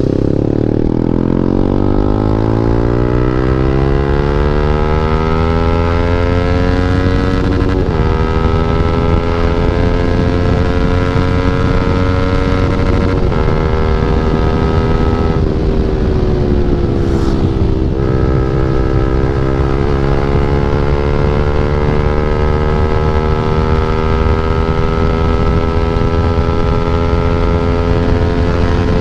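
KTM Duke 390's single-cylinder engine through an Akrapovic exhaust with the dB killer removed, under way. Its pitch climbs steadily for about the first half as the bike pulls, drops for a couple of seconds past the middle, then holds and slowly rises again.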